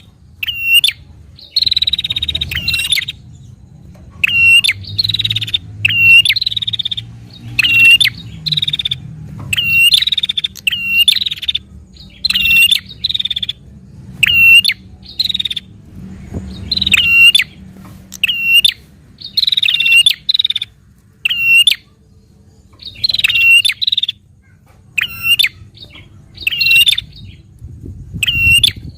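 Prinia (prenjak) calling fast and loud: short, sharp, high-pitched notes repeated about once a second, often in quick pairs or triplets. This is the rapid repeated 'narung' call that keepers prize in a bird in full song.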